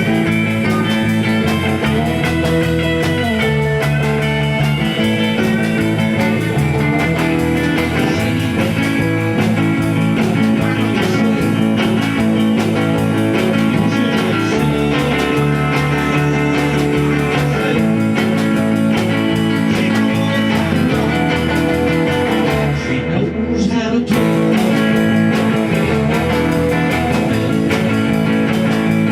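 Rock band playing an instrumental passage led by guitar over a bass line that moves between chords every few seconds, with a brief dip in the sound about three-quarters of the way through.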